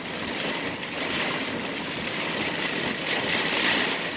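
Heavy rain pelting a vehicle's roof and windshield, heard from inside the cabin over the vehicle's running noise. The rain comes in a louder, hissier surge about three seconds in.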